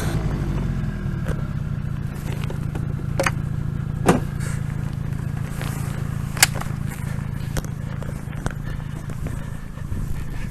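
Honda VTR1000F V-twin engine running at low revs, its note dropping in the first second and then holding steady. A few sharp clicks or knocks stand out over it, the loudest about four and six seconds in.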